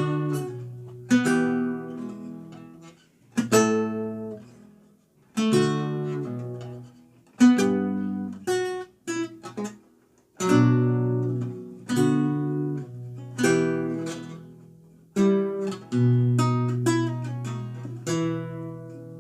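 Renaissance lute played solo: plucked chords and single notes, each struck sharply and left to ring and die away, in an unhurried rhythm.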